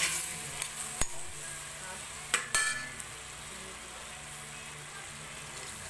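Chopped meat sizzling as it sautés in a stainless steel pot. A metal spoon stirs and knocks against the pot about a second in and again at about two and a half seconds. After that only the steady sizzle remains.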